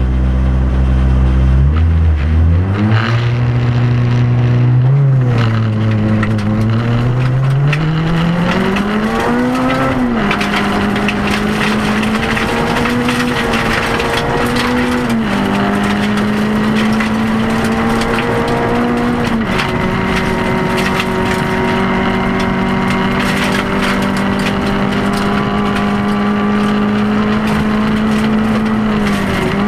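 Rally car engine heard from inside the cabin, accelerating hard through the gears. Its note climbs and drops back sharply at each upshift, several times in the first twenty seconds, then holds steady at high revs.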